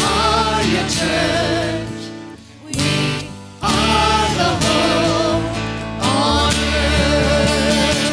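Worship band music with voices singing long, wavering notes. The music thins out and nearly stops a little after two seconds in, then the full band comes back in about a second later.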